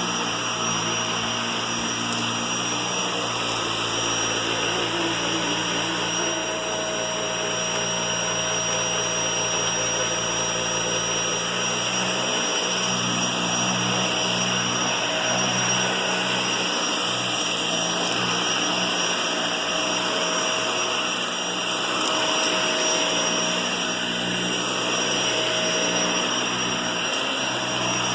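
Vacuum cleaner running steadily, with a thin, high, steady whine over the motor's rushing noise.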